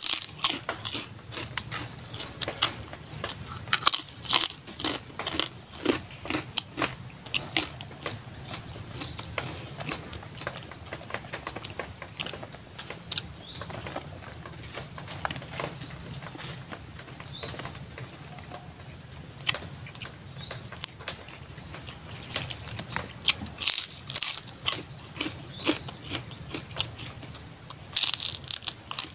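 Close-up eating sounds: chewing and wet mouth clicks with sharp crunches of skin crackers (kerupuk kulit). Behind them a steady high-pitched hum, and a bird repeating a short chirping phrase about every six or seven seconds.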